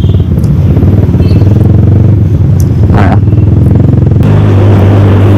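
Yamaha R15 V3's single-cylinder engine running steadily while riding in traffic, heard from on the bike, with a rush of wind noise over it that eases about four seconds in.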